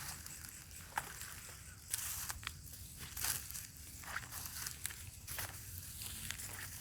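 Footsteps and rustling through dry grass and undergrowth: irregular crunches and snaps, a few sharper than the rest.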